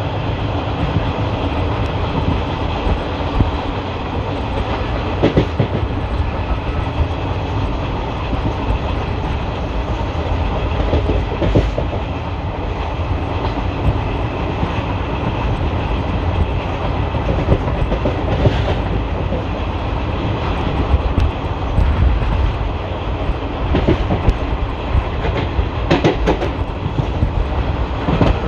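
Running noise of an Indian Railways ICF passenger coach, heard from onboard: a steady rumble of wheels on track, with sharp clacks over rail joints every few seconds.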